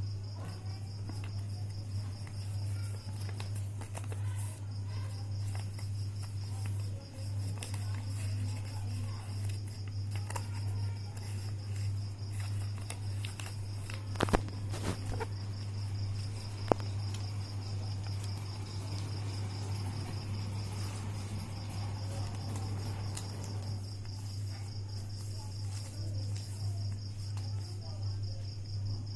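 A cricket chirring steadily in the background as a fast, even high pulsing, over a low steady hum. Two sharp clicks stand out, one a little before the middle and one a few seconds later.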